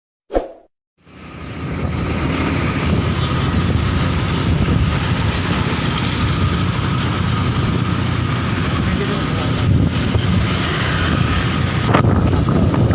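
Strong wind buffeting the microphone of a moving motorcycle, with the bike running underneath, starting about a second in after a short knock.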